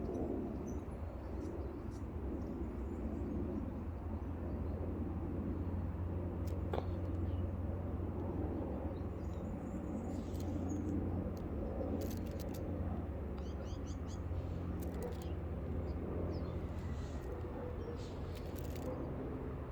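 Outdoor background noise: a steady low rumble with scattered short clicks and chirps.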